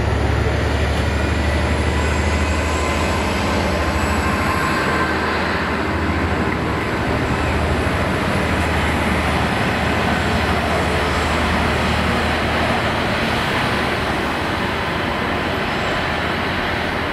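Passenger train running away on the rails: a steady rumble of coaches on the track over the low, even drone of the diesel locomotive on the rear, easing off slowly.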